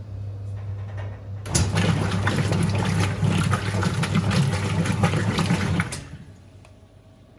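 Whirlpool 3RLSQ8033SWD top-loading washing machine with a steady low hum, then about a second and a half in a loud rush of water through the machine for about four seconds that cuts off abruptly.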